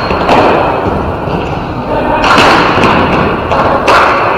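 Ball hockey play: three sharp thuds and knocks, from the ball, sticks and players hitting the rink boards, over a steady echoing din of the rink.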